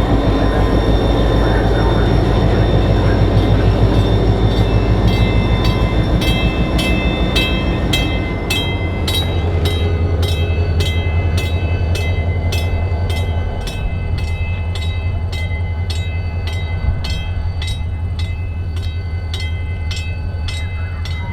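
Diesel-powered coach train rolling past, its locomotive engine making a steady low hum while the wheels click evenly over the rail joints, about one and a half clicks a second from about five seconds in.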